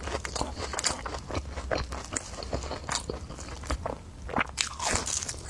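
Close-miked eating: crunchy bites and chewing, with many sharp, irregular crackles.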